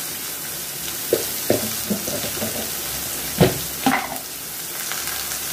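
Grated carrots frying in a kadai with a steady sizzle, broken by a few light knocks of a spoon against the pan, the sharpest about three and a half seconds in.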